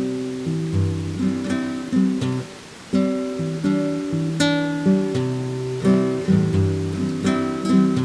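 Acoustic guitar played with strummed chords and picked notes, pausing briefly about two and a half seconds in before carrying on.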